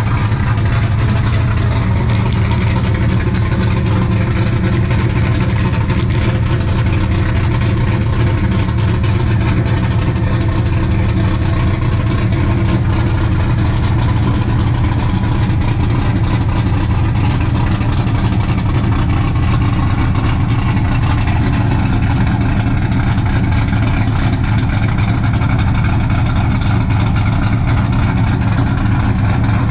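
LS V8 engine in an E46 BMW idling steadily in gear, spinning the driveshaft, with no exhaust fitted past the headers. A constant, even running note that does not rise or fall.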